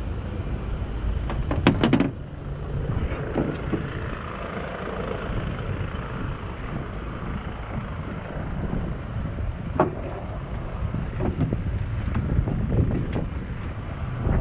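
A motor running steadily while under way, a low rumble with wind buffeting the microphone and a few knocks, loudest about two seconds in.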